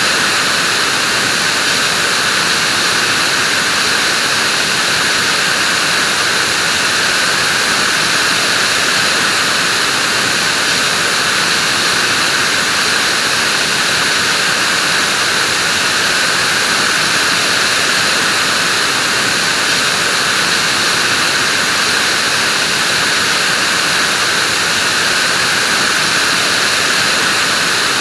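Vacuum cleaner running continuously at a steady pitch, a loud even rushing whine with no change.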